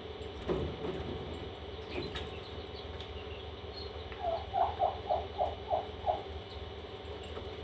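Baby parrot chicks peeping: a run of about seven short, evenly spaced calls past the middle, with a few faint higher chirps earlier, over a steady hum.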